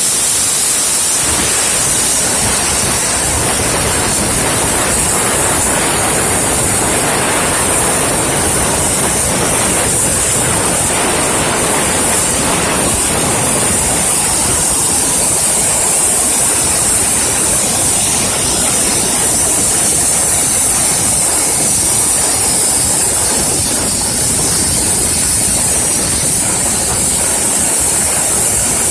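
Cutting torch of a CNC profile cutting machine running continuously as it cuts, a loud steady hiss with a strong high-pitched edge.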